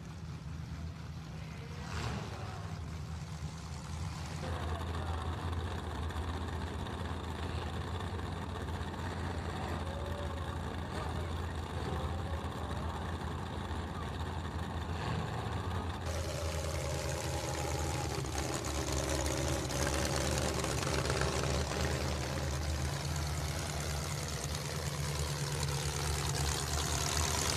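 Several demolition derby cars' engines idling and running as the cars roll into the arena, growing gradually louder.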